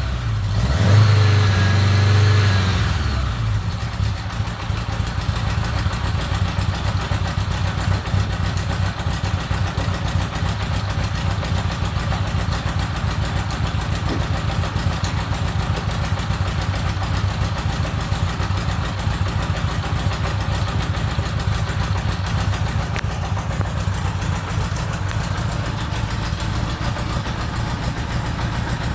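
1975 Honda GL1000 Gold Wing's flat-four engine, breathing through its newly fitted headers and mufflers, revs briefly about a second in and then settles into a steady idle.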